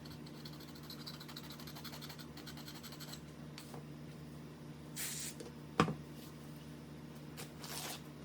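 Light scratching and rubbing strokes on a small-engine carburetor part's gasket mating surface as old gasket residue is cleaned off by hand, with a sharp click just before six seconds in. A steady low hum runs underneath.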